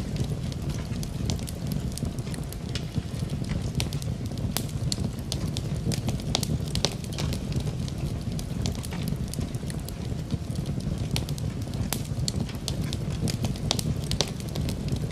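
Wood fire crackling in a fireplace, with frequent irregular sharp pops and snaps over a steady low rushing bed, mixed with steady rain.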